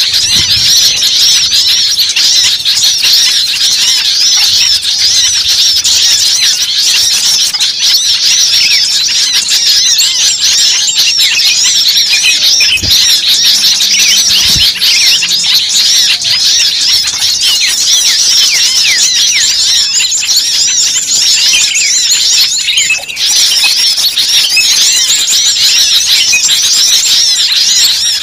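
Many small birds chirping at once: a loud, unbroken chorus of short, overlapping high chirps, with a brief lull about three-quarters of the way through.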